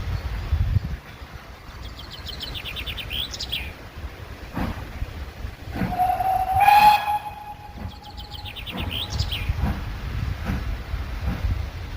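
A steam locomotive whistle sounds one blast of about a second and a half, midway through; it is the loudest sound. A songbird sings a short, quick trill twice, before and after the blast, over a low rumble.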